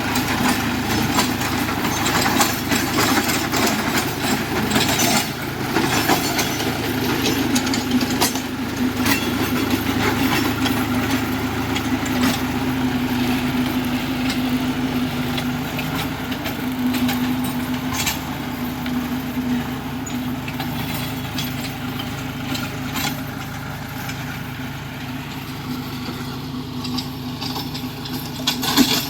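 John Deere tractor's diesel engine running steadily, with scattered sharp clicks and knocks throughout and a louder knock near the end.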